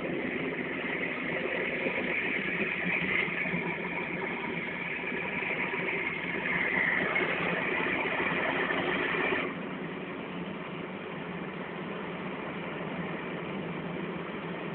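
Heavy rain in a thunderstorm, falling as a steady dense hiss; the hiss drops abruptly about nine and a half seconds in and continues more quietly.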